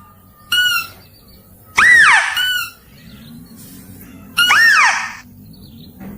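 Mouse-deer (kancil) calls from a lure recording played to attract the animal. A short high call of even pitch comes first, then two longer high calls, each rising and then falling in pitch.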